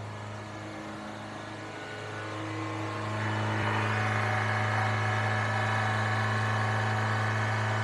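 Suzuki Sidekick's fuel-injected four-cylinder engine running at a steady high idle of about 3,500 rpm just after a cold start, an over-high cold idle whose cause the owner doesn't know. It grows louder about three seconds in, then holds steady.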